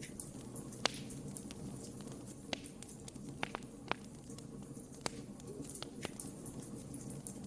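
Wood fire burning in a fireplace: a steady low rush of flames with sharp, irregular crackles and pops from the burning wood, about seven of them, a few coming close together midway.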